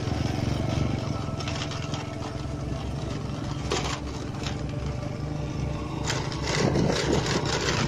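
Small motorcycle engine running steadily while riding, with knocks and rattles from a rough track.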